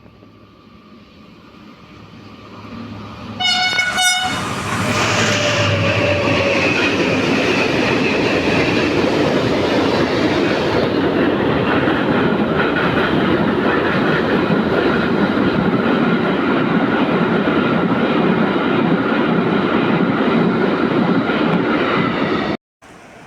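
A train gives a short horn blast as it comes in, then runs through at speed: a loud, steady rush and rumble of wheels on the rails that goes on for about eighteen seconds and cuts off suddenly near the end.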